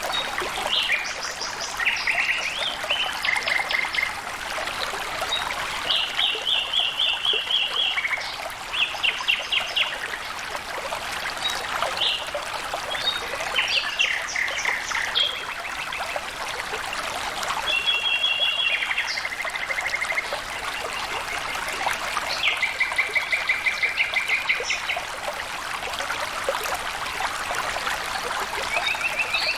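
Flowing water trickling steadily, with birds singing over it: short trills of fast repeated notes, one after another.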